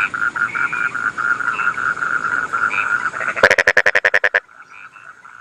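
A chorus of rice-field frogs, one call pulsing about five times a second. About three and a half seconds in, a louder frog gives a rapid rattle of about ten clicks lasting a second, and then the chorus drops away quietly.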